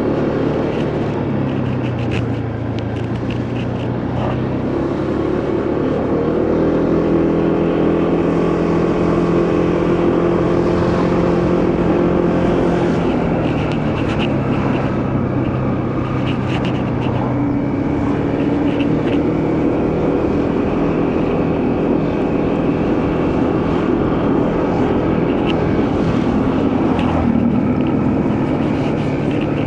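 Motorcycle engine running under way, its pitch stepping up and down several times with speed and gear changes, over steady wind and road noise.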